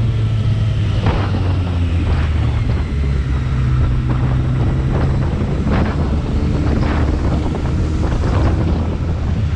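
BMW K1300R's inline-four engine running steadily under way, with wind rushing and buffeting over the microphone.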